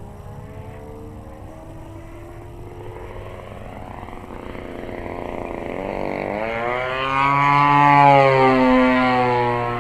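Desert Aircraft DA-35 two-stroke gas engine on an RC aerobatic plane in flight, growing steadily louder as the plane approaches. Its pitch rises, then drops as the plane passes, loudest about eight seconds in.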